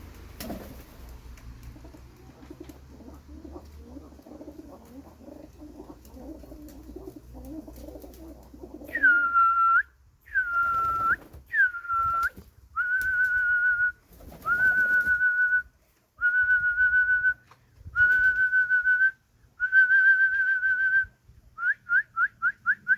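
Pigeons cooing softly, then a pigeon keeper's loud whistling: about nine long, steady, single-pitched whistles of roughly a second each, ending in a quick run of five short ones.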